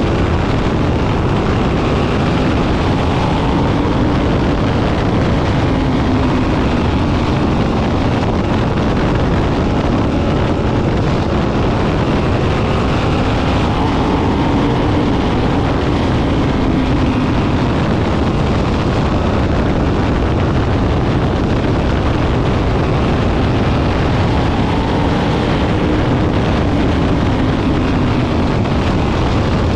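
Sprint car engines running hard as the field circles the oval, a constant loud racket whose engine pitch rises and falls about every eleven seconds as the cars come round each lap.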